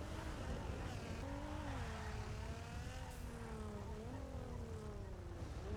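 Car engine running, its note rising and falling gently over a steady low rumble.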